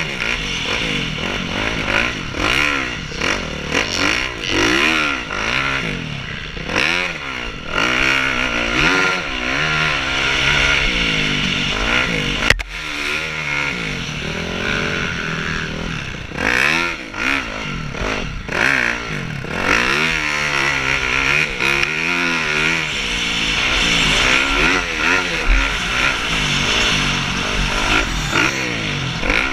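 Several motocross bikes racing, their engines revving up and falling back again and again as they accelerate, shift and brake, often overlapping, with one brief click about twelve seconds in.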